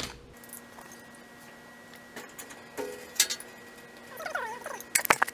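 Sharp clicks of a gas water heater's pilot spark igniter being pressed several times, with the loudest cluster near the end. The spark is not lighting the gas. A brief squeak comes about four seconds in, over a faint steady hum.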